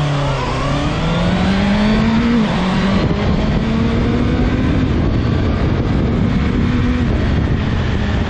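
Honda CB650F inline-four accelerating hard from a launch-control start, the engine note rising in each gear and dropping abruptly at quickshifted upshifts about two and a half and five seconds in. Heavy wind noise on the microphone, which takes over as the engine note fades near the end.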